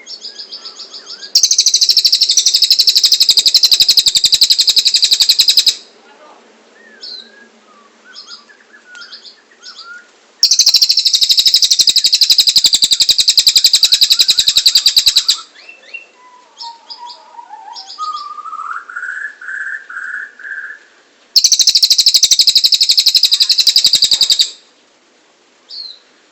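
Cililin bird singing: three long, loud, very rapid high trills of about three to five seconds each, with softer short chirps and a lower run of notes in the gaps between them.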